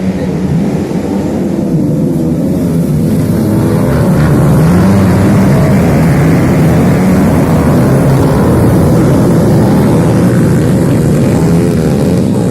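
Motocross dirt bike engines revving and running loudly, their pitch rising and falling, building up over the first few seconds.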